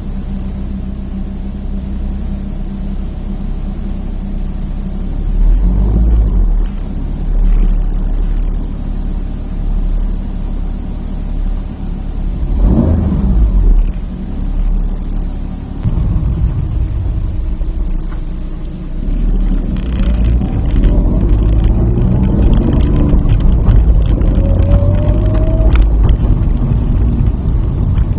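Toyota Supra's stock 2JZ-GE straight-six, running on an AEM Series 2 standalone ECU, starting out steady, then rising and falling in pitch several times. Near the end it pulls harder and climbs steadily in pitch.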